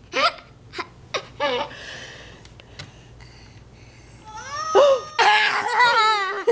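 Toddler giggling and laughing in short bursts, with a longer, louder run of wavering laughter in the second half.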